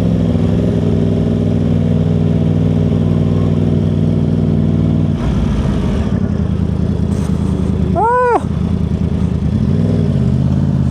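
Motorcycle engine idling steadily; its note changes about five seconds in, and about eight seconds in there is one quick high rev that rises and falls in pitch.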